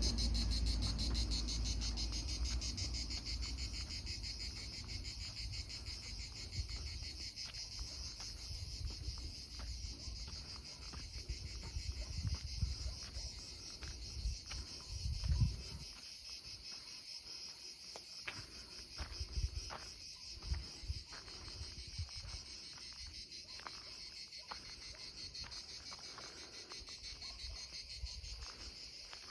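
Crickets chirping in a steady, fast-pulsing chorus. Underneath is a low rumble that fades away, plus a few scattered low thumps, the strongest about halfway through.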